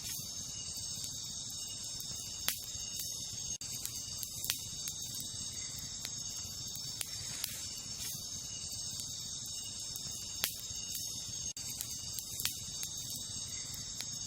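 Wood campfire crackling, with sharp pops every second or two, the strongest about two and a half seconds and ten and a half seconds in, over a low steady rush of the flames. Behind it, a steady high chorus of crickets or other night insects.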